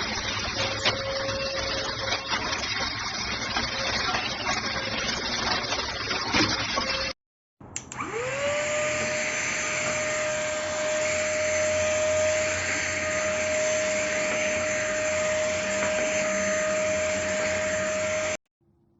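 THUNDER_VACUUM ST6101 cordless wet-and-dry vacuum cleaner running with a hiss and scattered clicks. It breaks off about seven seconds in, then the motor starts again, spinning up within a second to a steady high whine that cuts off abruptly just before the end.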